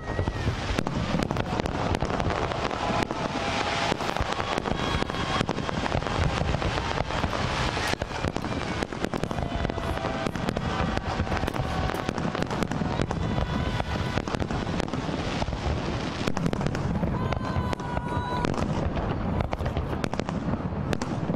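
Fireworks display going off in a dense, continuous barrage of bangs and crackles, with held tones sounding through it.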